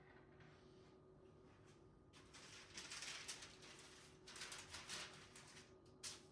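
Faint food-preparation handling noises: two stretches of scratchy, rustling noise a second or so long each, then a sharp click near the end, over a faint steady hum.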